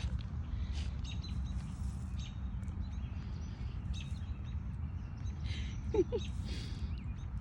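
Birds chirping in short, scattered calls over a steady low rumble of outdoor background noise, with a brief squeak about six seconds in.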